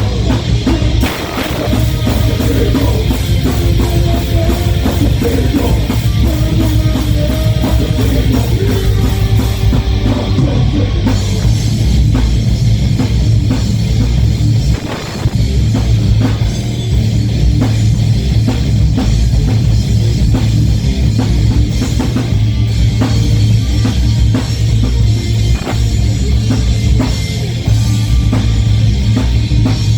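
Heavy metal band playing live: distorted electric guitars and a drum kit, loud and continuous, with a brief drop about fifteen seconds in.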